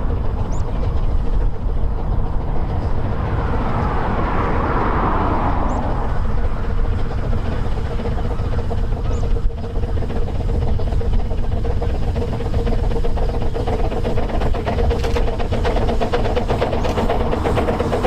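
Narrow-gauge train running on the track: a steady rumble with a held tone, swelling briefly about four seconds in.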